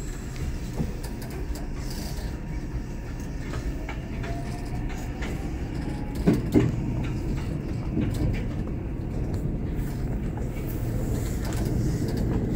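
Electric commuter train running, heard from inside the carriage: a steady low rumble with wheel clicks over the rail joints, two sharper clacks about six seconds in.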